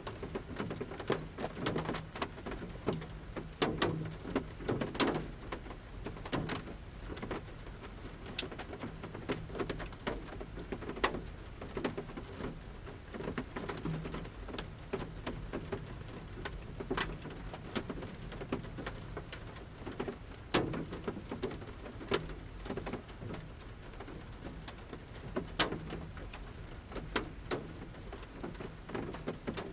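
Light forest rain on the roof of a camper van, heard from inside: large drops from the leaf canopy strike the roof at irregular intervals over a soft, steady patter.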